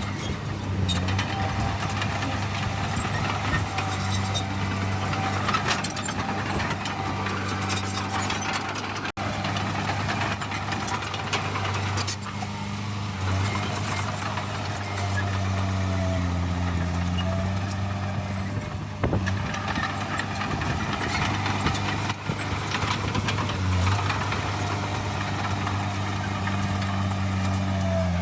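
Heavy diesel earthmoving machinery running steadily with a continuous low engine drone, with a brief dropout about nine seconds in.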